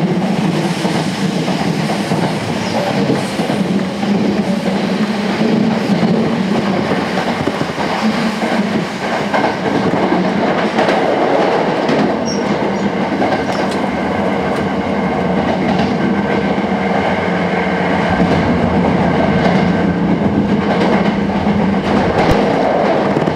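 Sanyo Electric Railway 5000 series electric train running at speed, heard inside the passenger car: a steady rumble of wheels on the rails with a few brief clicks.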